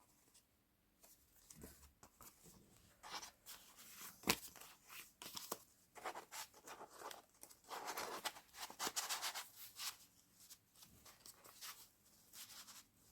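Paper pages and tucked-in papers of a handmade junk journal rustling and crinkling as they are handled and turned, with a few sharp taps; busiest a little past the middle.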